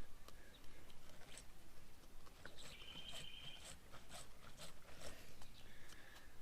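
Faint scattered clicks and knocks from hand work on a motorcycle fork leg. A bird's call is heard in the background, including one held call about two and a half seconds in.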